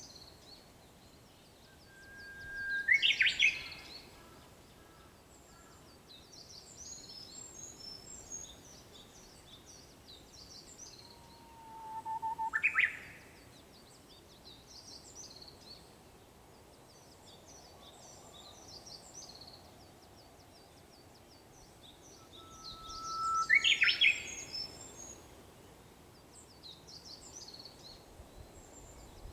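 Japanese bush warbler (uguisu) singing its "hoo-hokekyo" song three times, each a long held whistle breaking into a quick rising flourish. Between and under the songs, other small birds twitter continuously at a high pitch.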